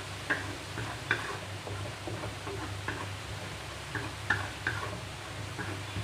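Spatula stirring a chilli paste frying in oil in a pan: a steady sizzle with irregular sharp clinks and scrapes of the utensil against the pan, about eight in six seconds.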